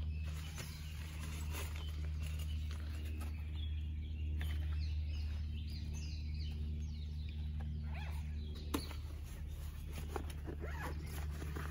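Birds calling in the surrounding trees, a run of short falling chirps, over a steady low rumble. A single sharp click sounds about nine seconds in.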